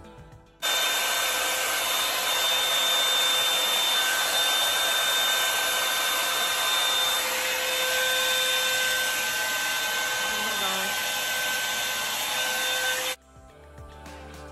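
Revlon One-Step hot-air brush hair dryer running on a section of hair: a steady rush of air with a thin whine through it. It cuts in suddenly about half a second in and cuts off just as suddenly near the end.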